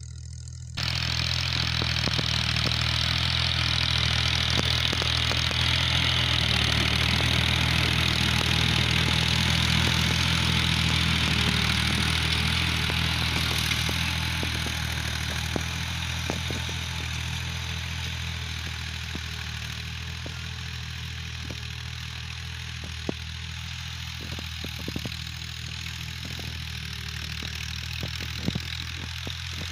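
Tractor engine running steadily, with a hiss over it that eases off about halfway through and scattered light clicks and rattles in the second half.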